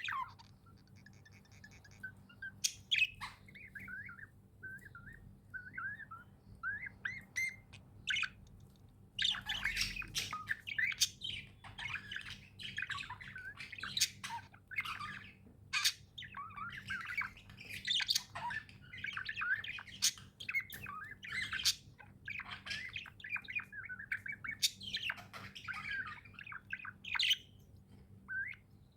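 Budgerigars chirping and chattering: scattered short chirps at first, then a dense flock chatter of many quick warbles and squawks from about a third of the way in.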